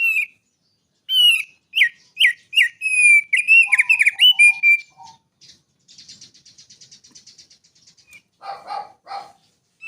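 Songbird singing a varied song: a sharp chirp at the start, then a string of loud, slurred whistled notes, a rapid buzzy trill about six seconds in, and two lower warbled notes near the end.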